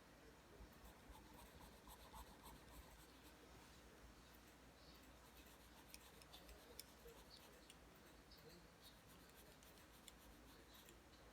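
Faint scratching of a pencil drawing lines on paper, with small ticks scattered through it.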